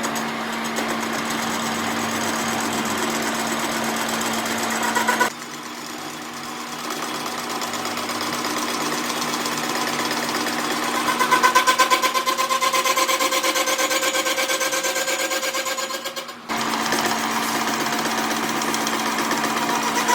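A workshop machine's motor running steadily with a humming tone. From about halfway it takes on a fast rhythmic pulsing, and the sound breaks off abruptly twice.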